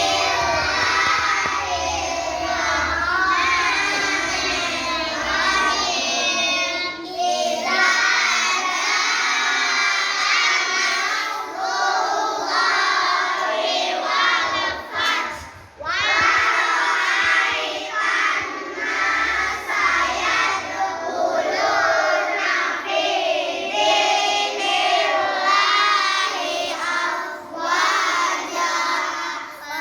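A group of children chanting Qur'anic recitation together in a sing-song unison, continuing with only brief pauses.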